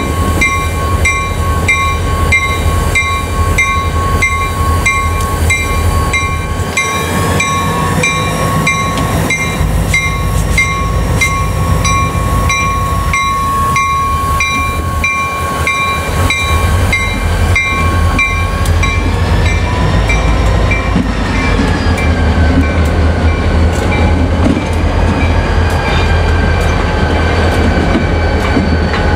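Diesel freight locomotives rumbling past with a train of passenger coaches, a bell ringing in a rapid even beat over the engine sound until it stops about two-thirds of the way through. The coaches then roll by with wheel clatter and some squealing, gliding tones from the wheels.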